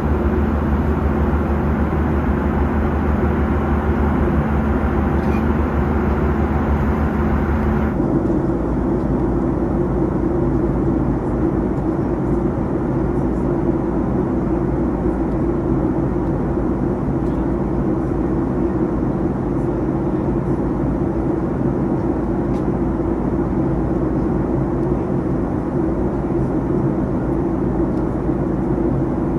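Steady in-flight cabin noise of a Boeing 737-800: engine and airflow hum with steady low tones. About eight seconds in, the sound changes abruptly to a duller hum with a stronger low drone.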